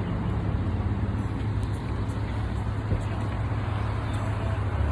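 Car running, a steady low rumble with road noise.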